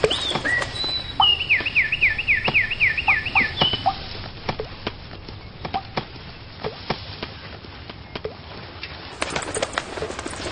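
A cartoon bird calling in a quick run of falling chirps, about four a second, for a couple of seconds, followed by scattered light ticks and clicks.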